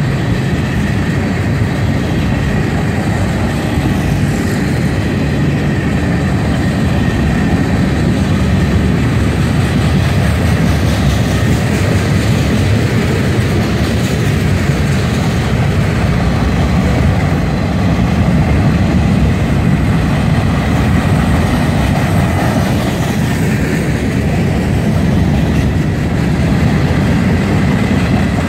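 Freight train cars rolling past close by: tank cars, covered hoppers and boxcars make a steady heavy rumble of wheels on rail. A faint, steady high tone runs over the rumble.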